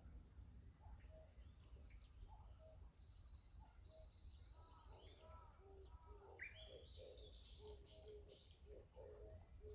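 Faint outdoor birdsong: short repeated chirps and whistled notes, with a brighter burst of song about six and a half seconds in, over a low steady rumble.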